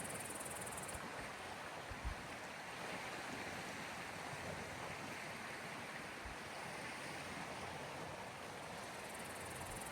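Sea waves washing steadily on the shore, with a single brief low thump about two seconds in.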